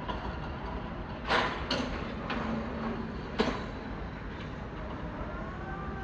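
Railway station platform ambience: a steady rumble with a few short, sharp noisy bursts, the loudest about one and a half seconds in and another about three and a half seconds in.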